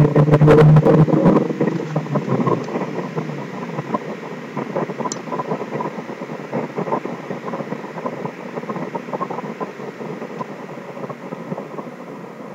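Turbocharged Honda S2000 AP1's 2.0-litre four-cylinder engine coming off throttle and dropping back to idle near 1000 rpm. Its steady hum fades over the first two seconds, then gives way to a quieter, even background noise.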